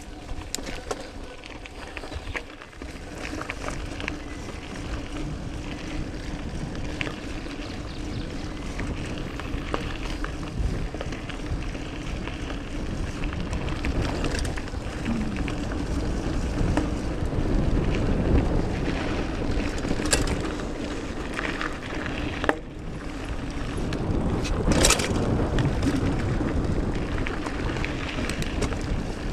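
Trek Mamba mountain bike being ridden on a dirt trail: tyres rolling with a steady low rumble and scattered rattles and clicks, two sharper ones in the second half.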